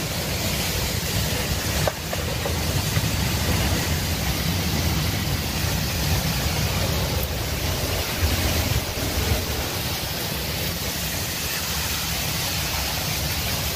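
Strong wind blowing hard and buffeting the microphone: a steady rushing noise over a heavy low rumble, with a brief knock about two seconds in.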